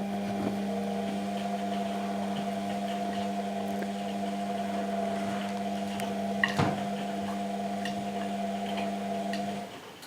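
Washing machine motor running steadily as it turns the drum, a hum with several overtones that stops shortly before the end. A sharp click about six and a half seconds in.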